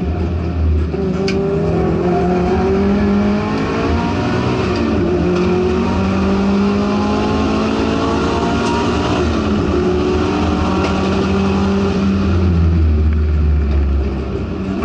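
Subaru STI race car's engine heard from inside the cabin, pulling hard at full throttle. Its pitch climbs steadily and drops back at an upshift about four seconds in and again near twelve seconds, over steady road and wind noise.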